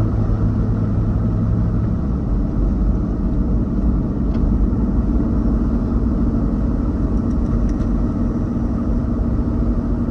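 Car driving on a highway, heard from inside the cabin: a steady low rumble of road and engine noise, with the engine hum changing pitch about two seconds in.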